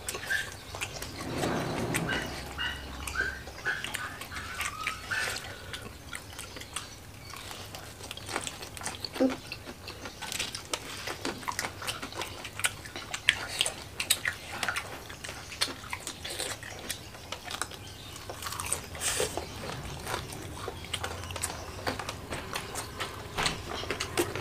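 Close-up chewing and crunching of crispy battered fried mushrooms eaten by hand with rice and chili sambal: irregular crisp crunches with wet mouth sounds.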